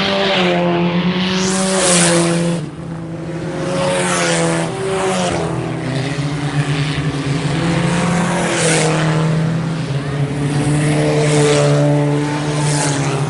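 IMCA Sport Compact race cars' four-cylinder engines running hard, with cars going past one after another, several times; the engine pitch rises and falls as the drivers lift and get back on the throttle.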